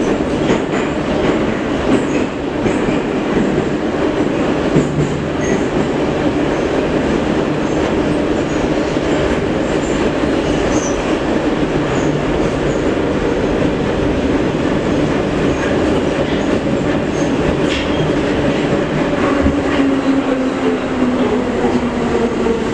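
Metro train running through the tunnel, heard from inside the car: a steady loud rumble of wheels on rails with a motor tone whose pitch falls near the end as the train slows.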